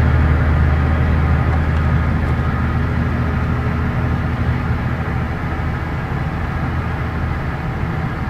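Scania K113 bus's 11-litre straight-six diesel running as the bus drives, with road noise heard from inside. The engine's low note is strong at first and fades over the first couple of seconds.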